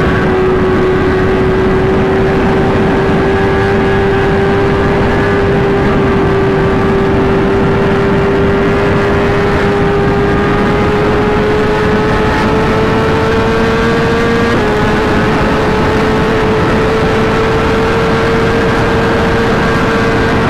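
Inline-four sportbike engine and exhaust running hard at high revs under steady throttle, the pitch climbing slowly for most of the stretch, dipping slightly about fourteen seconds in, then holding.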